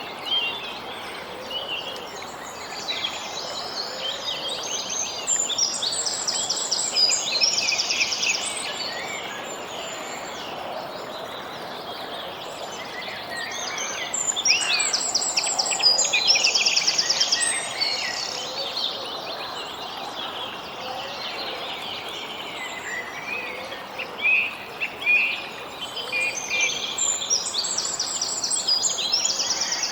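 Birds singing over a steady outdoor background hiss, with bursts of fast chirping trills coming back three times.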